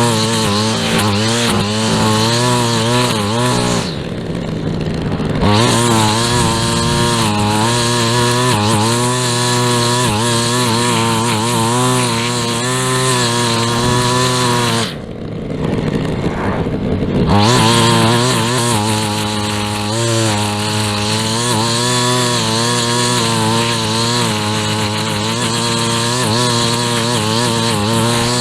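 Small gasoline engine of a yard power tool running at high speed, its pitch wavering with load, and eased off twice for a second or two before picking back up.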